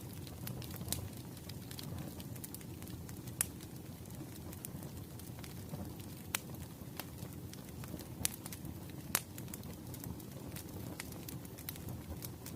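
Wood fire burning in a fireplace: a steady low rumble of flames with irregular sharp crackles and pops from the burning logs, a few of them standing out louder.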